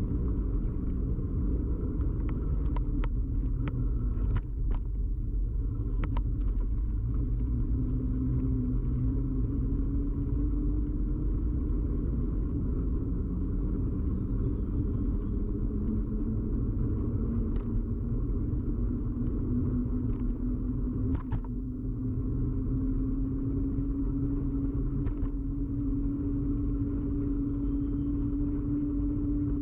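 Bicycle ride heard through a camera mounted firmly on the bike: a steady low rumble of tyres and road vibration carried through the frame, with a hum that slowly rises in pitch. Scattered sharp clicks and knocks come through, several in the first few seconds and a couple more later.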